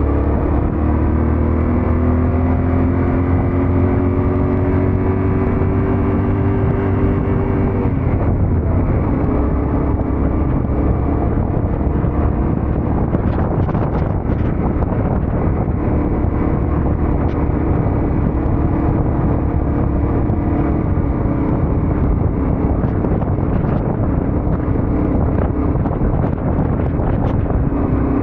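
Yamaha Ténéré 700 parallel-twin engine running under way, its pitch rising slowly for about eight seconds, then dropping and holding steady. Wind noise throughout.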